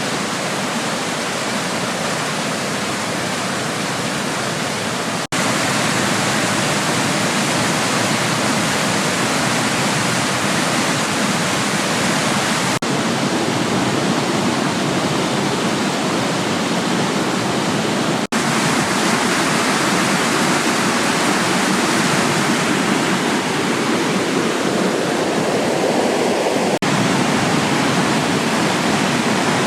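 Waterfall: a steady rush of falling water. It drops out for an instant four times, with a slight rise in level after the first break.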